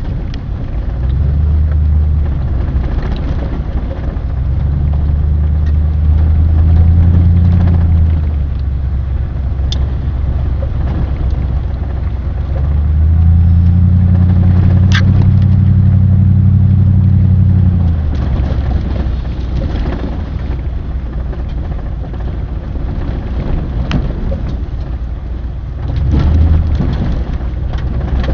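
A vehicle engine running with a low, steady drone that swells louder twice and eases back, with a few sharp clicks over it.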